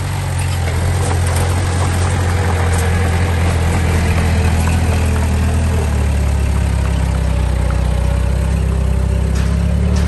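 Heavy diesel engine of an earthmoving machine running steadily, its low note changing about six seconds in.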